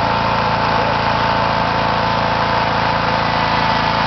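Small tractor's engine running steadily at an even pitch, without revving up or down.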